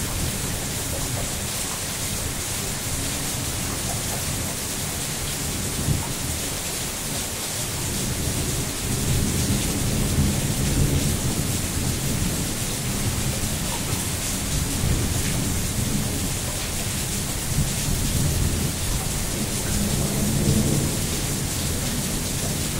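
Steady heavy rain falling, an even hiss throughout, with low rolling rumbles swelling about eight seconds in and again around twenty seconds in.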